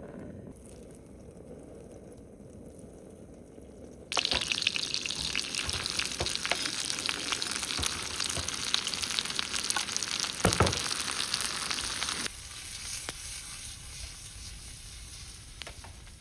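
Food sizzling and crackling as it fries in a hot pan. It starts suddenly about four seconds in, with a low rumble before it, and drops off suddenly about twelve seconds in to a quieter sizzle.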